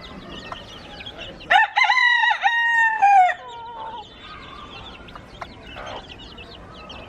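A rooster crows once, a loud call of several notes about one and a half seconds in, the last note held and then dropping away. Throughout, a flock of chickens with chicks keeps up faint high cheeping and clucking.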